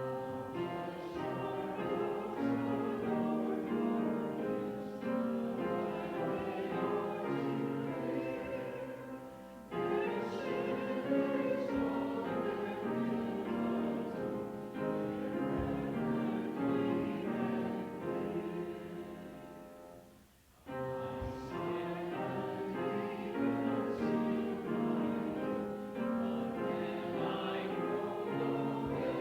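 A congregation singing a psalm together with keyboard accompaniment, in sustained phrases that pause briefly twice, about ten and twenty seconds in.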